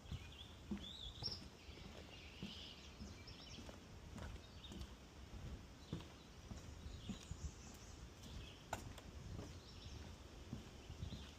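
Footsteps on a wooden boardwalk at a steady walking pace, soft thuds about every half second to second. Birds chirp and sing on and off throughout.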